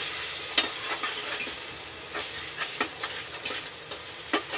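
Chopped tomatoes and spice paste sizzling in hot mustard oil in an aluminium pressure cooker, stirred with a metal spoon that clinks and scrapes against the pot now and then. The sizzle slowly quiets.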